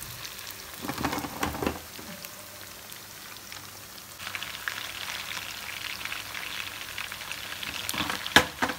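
Marinated chicken pieces deep-frying in hot coconut oil: a steady crackling sizzle, with a few clatters about a second in and one sharp knock near the end.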